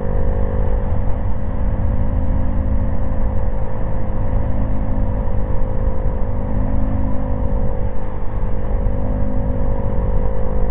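Honda Grom's small single-cylinder engine running at a steady cruising speed, its pitch holding nearly level, over a heavy low rumble of wind on the microphone.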